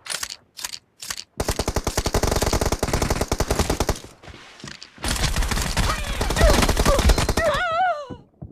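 Video game automatic gunfire: a few single shots, then a long stretch of rapid, even fire, a short lull, and a second long stretch. A brief wavering tone sounds near the end.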